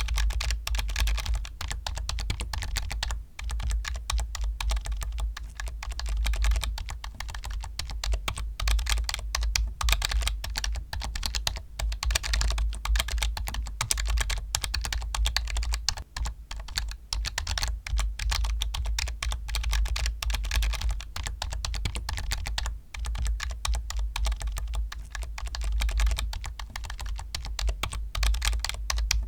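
Computer keyboard being typed on quickly and without pause, a dense run of key clicks, with a steady low rumble underneath.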